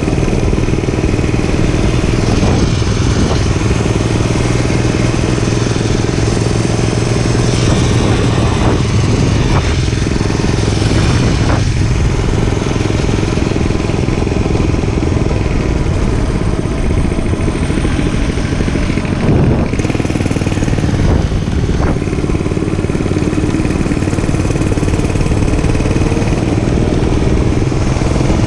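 Gas dirt bike engine running steadily while being ridden, with a dense rushing noise around it.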